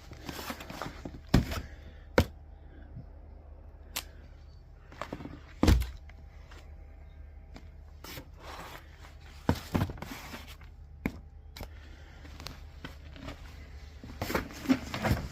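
Scattered knocks and clicks, with a few sharp thuds, over a faint steady low hum.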